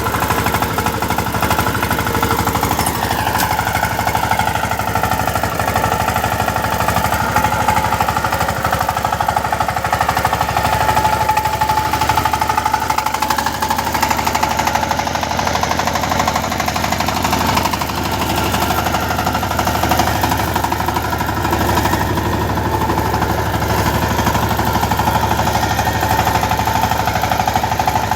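Power tiller's diesel engine running with a rapid, knocking clatter, its pitch shifting a few times as the engine speed changes.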